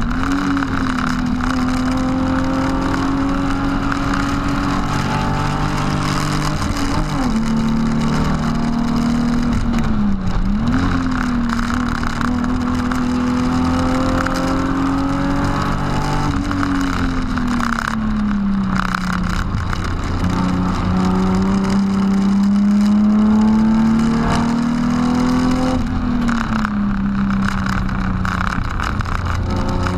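BMW E36 328i's straight-six engine heard from inside the car at track speed. The revs climb steadily in each gear and drop sharply at the gear changes several times. Around the middle the revs sag off as the car slows for a corner, then climb again.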